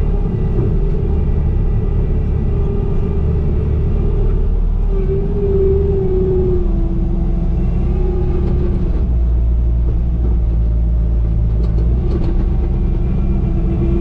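Bobcat compact machine working, its diesel engine running steadily at high revs. Over the engine, a hydraulic whine rises and falls as the load changes.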